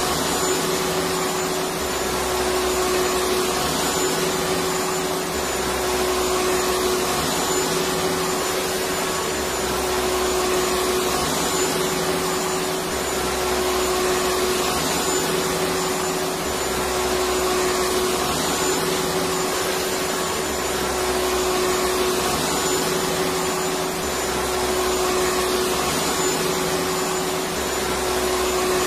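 Electric vacuum cleaner running steadily: an even rushing noise over a constant motor tone, the level swelling slightly every few seconds.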